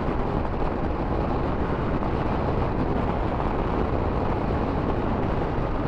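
Motorcycle riding along: steady wind rush mixed with engine and road noise, with no changes.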